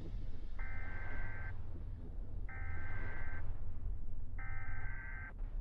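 An electronic beep-like tone sounding three times, each lasting about a second and spaced about two seconds apart, over a steady low hum.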